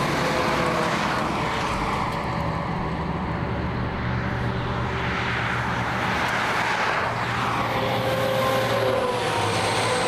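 Truck driving on the highway: steady engine hum and road noise, with the engine's pitch shifting slightly near the end.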